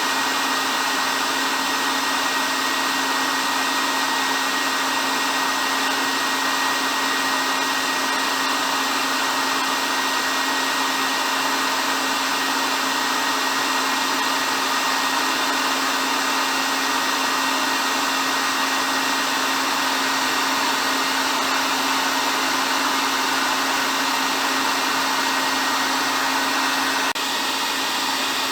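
Hair dryer running continuously: a steady rush of blown air over an even motor hum with a faint high whine. The level dips slightly near the end.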